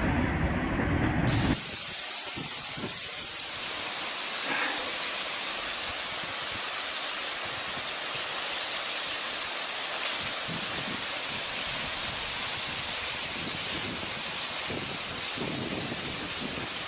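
A steady, even rushing hiss that starts abruptly about one and a half seconds in and holds unchanged until it cuts off near the end.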